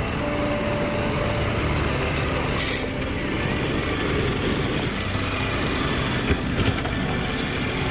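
A heavy vehicle's engine running steadily. A brief hiss comes about two and a half seconds in, and a couple of sharp knocks near the end.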